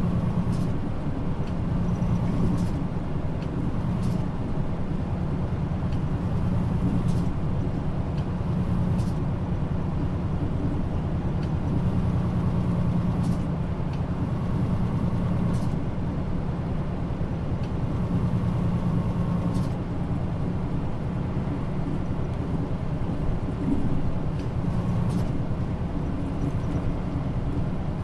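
Mitsubishi Fuso Aero Star (KL-MP35JM, Nishitetsu body) city bus driving at speed, heard inside the cabin: a steady diesel engine drone with road noise. The engine note swells and eases several times as the throttle changes, with a few faint clicks and rattles.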